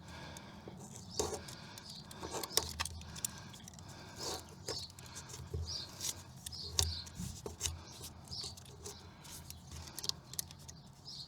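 Scattered handling noises: light irregular clicks, taps and rustles of hands working with materials and parts, over a low steady hum.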